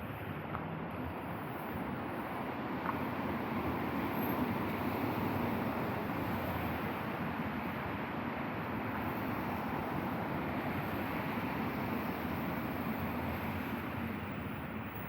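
Road traffic on a wet street: a steady rushing hiss of tyres on wet asphalt that swells a few seconds in and slowly eases off, as of a vehicle passing.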